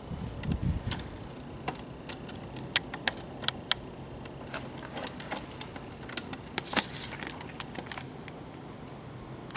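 A brief low thump about half a second in, then a run of irregular, sharp clicks and light taps, like small hard parts being handled.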